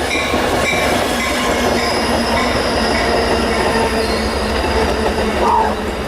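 A train rolling past, with continuous wheel-on-rail noise and a faint steady high squeal from the wheels. A bell rings about twice a second at the start and fades out within the first few seconds.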